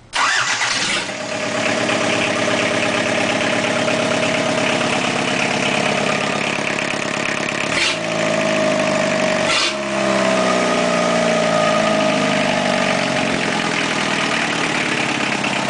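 1984 Isuzu 2.2-litre diesel engine starting up, catching within about a second, then running steadily. The engine speed shifts briefly twice, about eight and ten seconds in.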